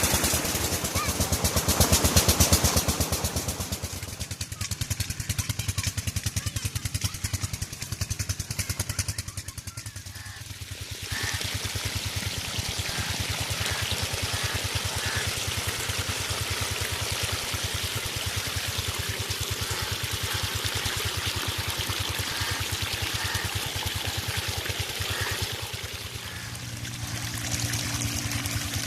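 Tube well diesel engine running at a fast, even beat, with water pouring and splashing from the pump's outlet pipe. The water sound grows louder about eleven seconds in.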